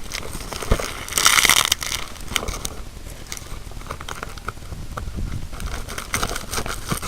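Heavy parcel packaging being pulled apart and crinkled by hand, with scattered crackles and clicks and a louder rustling burst about a second in.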